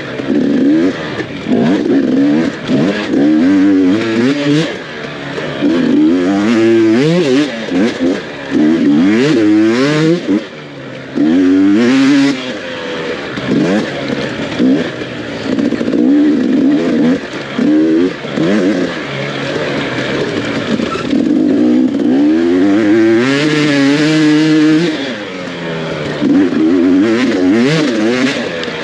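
Off-road dirt bike engine revving up and down over and over, its pitch rising and dropping every second or so as the throttle is worked through the gears.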